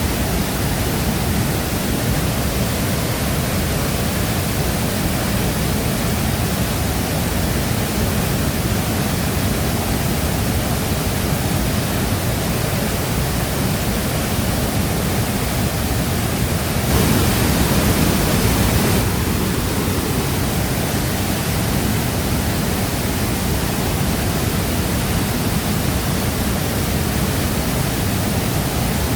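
Waterfall rushing steadily, a dense even roar of falling water. About 17 seconds in, it swells louder and brighter for about two seconds.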